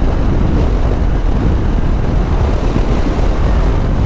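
Steady wind rush buffeting the microphone, over the engine and road noise of a motorcycle riding at speed.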